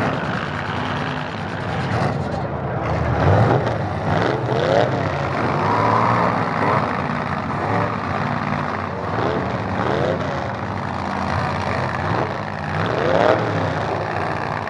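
Demolition derby truck engines running and revving. The pitch rises and falls with each burst of throttle, several times over.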